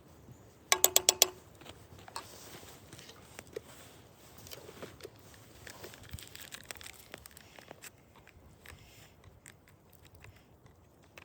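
Metal utensil rapped quickly about six times against a pot, each tap ringing with a clear pitch, about a second in. Then faint scraping and light clinking while chili is served.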